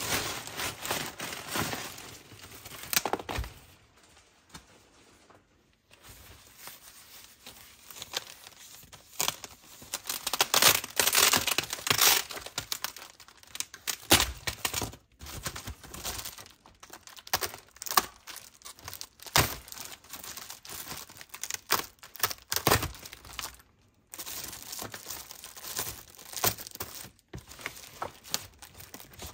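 Packaging crinkling and tearing as an item is unwrapped by hand, in irregular bursts with sharp clicks, loudest about a third of the way in, and a short pause early on.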